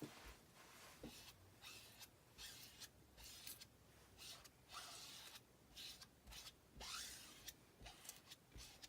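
Faint, short scraping and rubbing strokes in an irregular series, a couple a second: an applicator working chalk paste through a silkscreen transfer onto the board.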